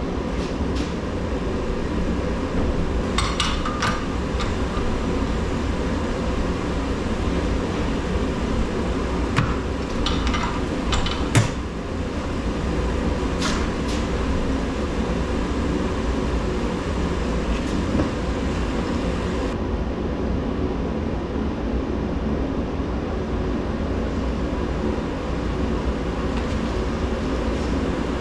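A steady mechanical rumble with a few sharp knocks or clanks over it, the loudest a little past a third of the way in.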